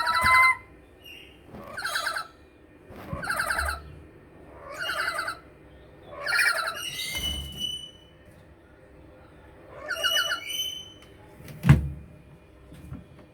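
Lories calling: short calls repeated every second or two, with a pause of about two seconds partway through. A single sharp knock comes near the end.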